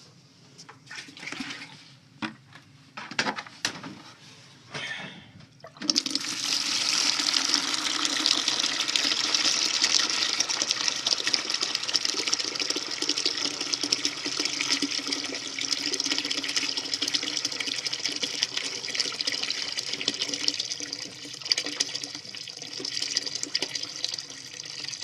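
A few knocks of handling, then about six seconds in water suddenly starts rushing out of an opened steam boiler drain and runs steadily as the boiler and sight glass are flushed out.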